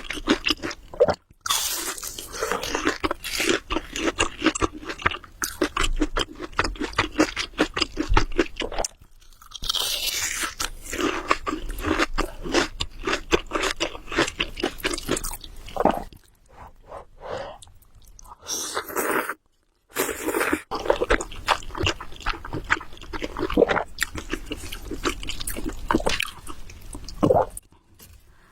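Close-miked eating of Samyang Buldak carbonara noodles: wet chewing and mouth sounds in quick, dense clicks, broken by a few short pauses.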